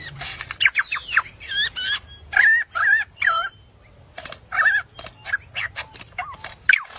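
Birds chirping and calling: a rapid series of short, sharp chirps and quick whistled notes, several at once, with a brief lull around the middle.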